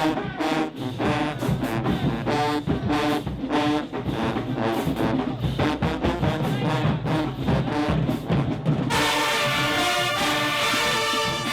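High school marching band playing: brass section with drums in a quick rhythmic figure, changing about nine seconds in to long held brass chords.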